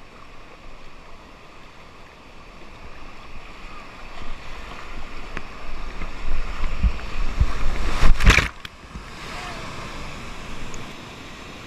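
River whitewater rushing, with wind and water buffeting the microphone; the rumble builds and peaks in a loud burst about eight seconds in, then drops back to a steadier rush.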